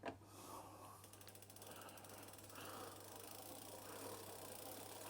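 Faint rapid clicking of a bicycle's freewheel ratchet as the cranks are turned backwards, with the pedal held still so that it screws itself into the crank arm.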